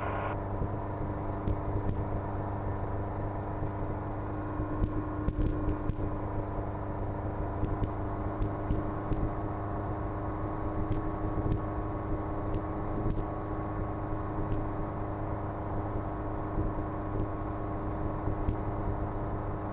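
Schweizer 300C helicopter in cruise flight heard from inside the cabin: the steady drone of its piston engine and rotors, a constant low hum with several steady tones above it and no change in pitch.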